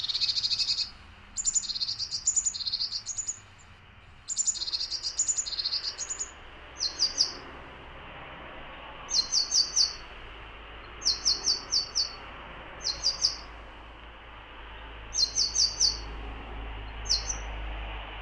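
Tits calling: buzzy runs of notes at first, then quick bursts of three to five short, high notes repeated every second or two, over a faint steady background hiss.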